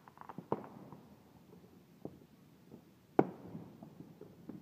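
Fireworks going off: a few scattered sharp bangs, the loudest about three seconds in, each trailing off in a short echo.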